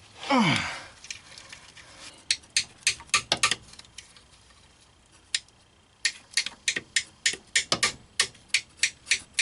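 Ratcheting gear wrench clicking as it turns out an intake manifold bolt, in quick runs of clicks that get denser near the end. A short falling squeak or groan comes just at the start.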